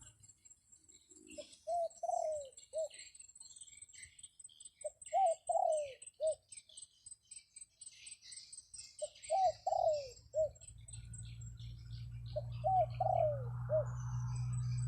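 A wild dove cooing four times, each phrase a short run of three or four quick curved notes. Small birds chirp and a steady high insect whine runs behind it. A low rumble builds in the second half.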